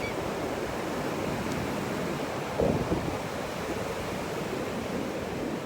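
Ocean surf washing steadily on the shore, with wind on the microphone and a brief louder sound about two and a half seconds in.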